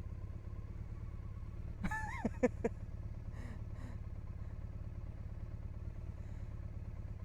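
Triumph Bonneville parallel-twin motorcycle engine running steadily, with a brief voice sound about two seconds in.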